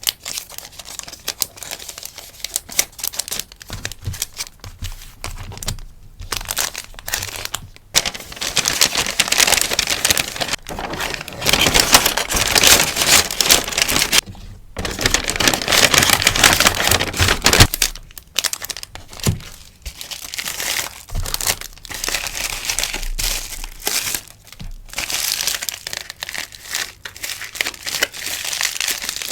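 Stickers and their packaging rustling and crinkling as they are handled and packed by hand, in irregular bursts with short pauses, loudest around the middle.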